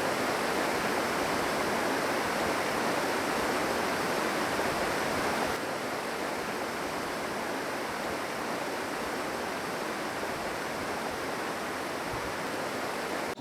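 Steady rushing water, the even hiss of a fast-flowing stream or river, a little quieter after about five and a half seconds.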